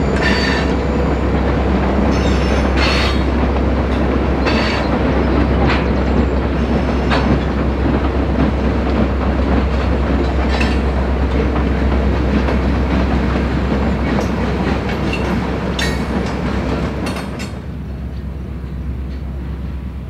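Freight train cars rolling past, the wheels clacking over rail joints every second or so under a steady rumble. Near the end the noise drops off sharply.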